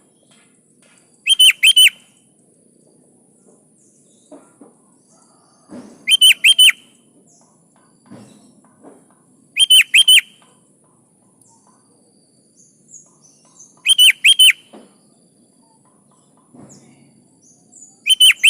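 Sooty-headed bulbul calling: a short phrase of three or four quick, loud whistled notes, repeated about every four seconds, five times.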